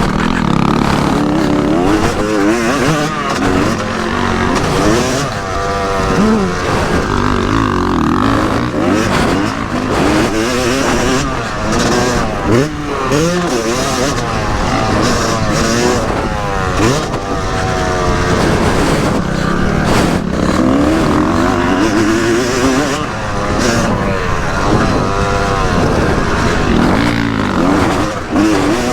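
Yamaha YZ250 single-cylinder two-stroke motocross engine being ridden hard, its pitch climbing and dropping over and over as the throttle is opened and closed through the gears.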